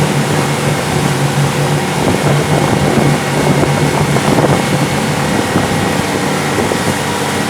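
Motorboat engine running steadily at speed, under a loud rushing noise.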